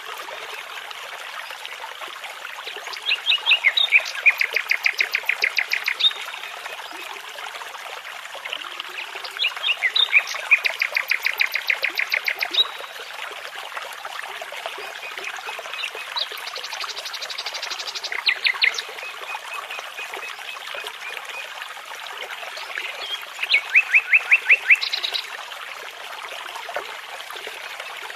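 A songbird singing phrases of rapidly repeated notes, four phrases several seconds apart, over the steady rush of a babbling brook.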